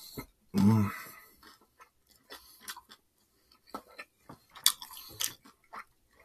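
Close-miked chewing and mouth sounds of a person eating takeout food: small wet clicks and smacks, with a brief low hum from the voice about half a second in and a few sharper clicks near the end.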